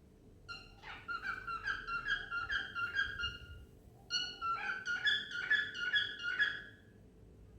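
Cockatiel whistling its song: two phrases of quick, piping whistled notes, with a short pause between them.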